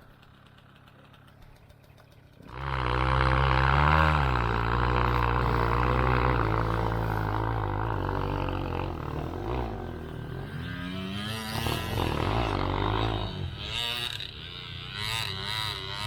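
Enduro dirt bike engine coming in suddenly about two and a half seconds in, then running and revving up and down under changing throttle.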